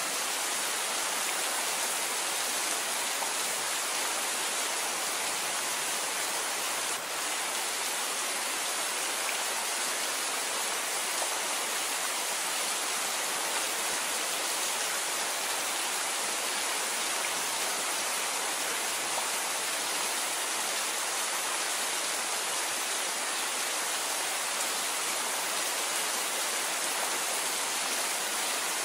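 Steady rain falling, an even hiss with no single drops standing out and a brief dip in level about seven seconds in.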